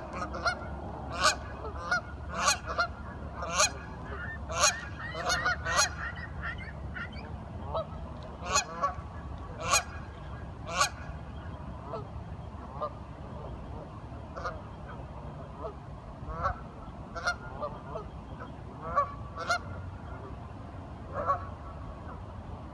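A flock of ducks quacking in short, sharp calls. The calls come in a quick run over the first six seconds, then more scattered, with a steady low rumble underneath.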